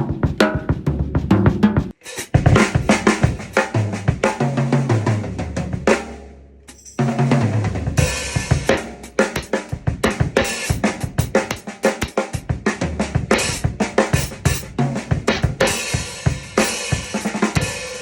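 A 1960s Ludwig drum kit with an added 1970s 14-inch tom played full-kit: bass drum, snare, toms, hi-hat and cymbals in a groove with tom fills, recorded raw. The playing dies away briefly about six seconds in, then starts again about a second later with heavier cymbals.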